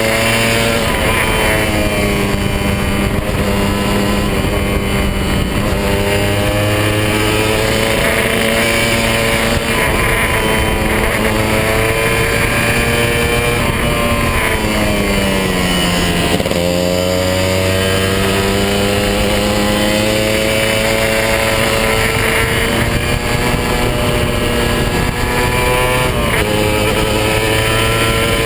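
Kawasaki 150 RR's single-cylinder two-stroke engine running under way at steady revs, over a constant rush of wind and road noise. A little past halfway the revs fall for about two seconds, then climb back up.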